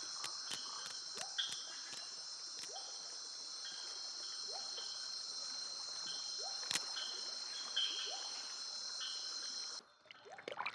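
Rainforest insect chorus: a steady, high-pitched buzzing of crickets, with short rising calls repeating about once a second beneath it. Near the end the chorus cuts off suddenly and a quick cluster of sharper rising calls follows.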